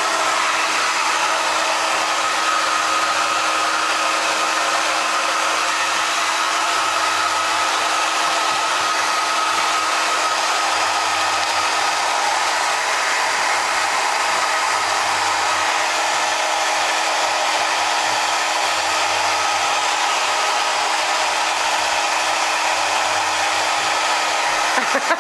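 Handheld hair dryer running steadily, an even rush of blowing air with a steady hum under it.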